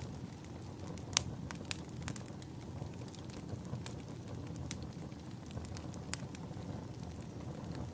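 Wood fire burning in a fireplace: a steady low rumble with scattered sharp crackles and pops, the loudest pops about a second and a half in.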